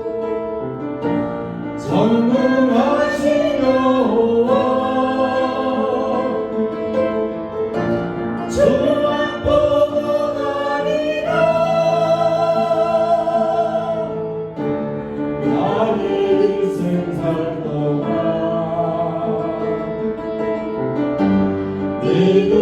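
Worship music: voices singing a slow Korean praise song over instrumental accompaniment.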